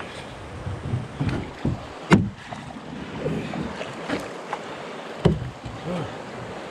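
A canoe out on the water: steady water sounds with irregular sharp knocks, the loudest about two seconds in and another just after five seconds.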